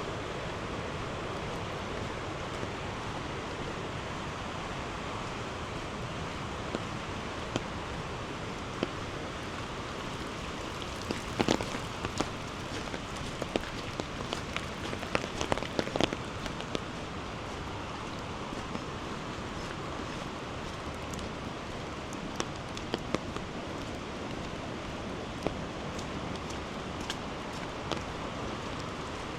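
Steady rain with irregular sharp drop taps close by, thickest around the middle.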